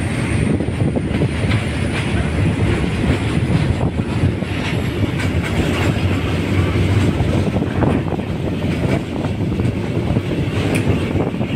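Passenger train carriage rolling slowly out of a station, heard from an open window: a steady rumble of wheels on rail, with scattered clacks as the wheels pass over rail joints and points.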